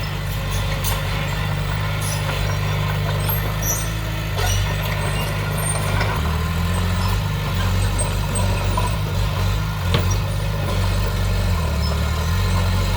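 Diesel engine of heavy earthmoving machinery running steadily, its pitch shifting a few times, with a single sharp knock about ten seconds in.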